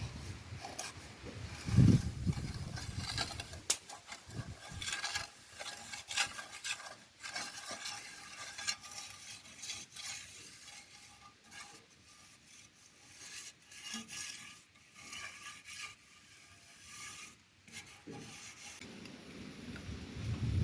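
Cooking utensil scraping and stirring with irregular light clicks and knocks, and one louder thump about two seconds in.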